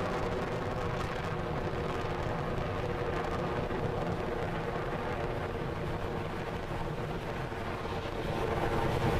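Falcon 9 rocket's first-stage engines (nine Merlin 1D) running during ascent: a steady, continuous rumbling roar.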